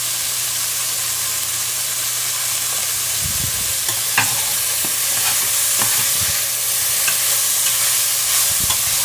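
Tofu and vegetable stir-fry sizzling in oil in a pan, stirred with a utensil that clicks and scrapes against the pan now and then from about three seconds in.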